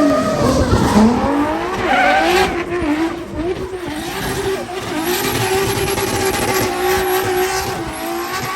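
A racing car's engine revving hard. Its pitch dips and swings about a second in, then holds a fairly steady high note.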